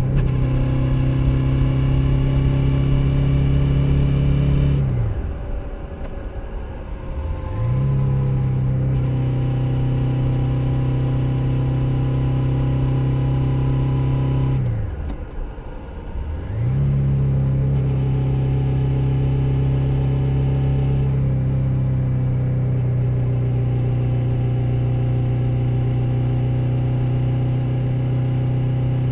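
Suzuki SV650's 645 cc V-twin engine pulling steadily on the move, picked up from under the seat. Twice, about five seconds in and again about halfway through, the revs and volume drop and then climb back as the throttle is rolled off and reopened.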